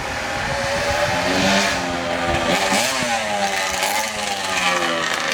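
Dirt bike engine running and being revved, its pitch rising and falling about two and a half seconds in and again near four seconds.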